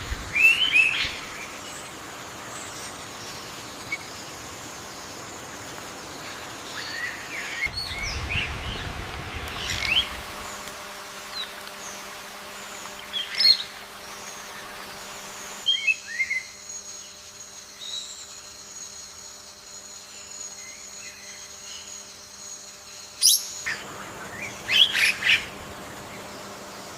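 Short bird chirps and calls in scattered clusters, loudest near the start and again near the end. A brief low rumble comes in about a third of the way through.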